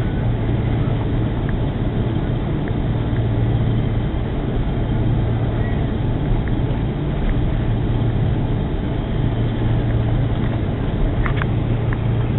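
Steady airliner cabin drone: the jet engines' low hum and rushing air heard from inside the aircraft, with a few faint clicks near the end.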